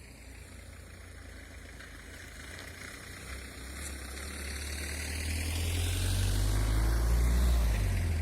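A motor vehicle's engine approaching, growing steadily louder and peaking near the end.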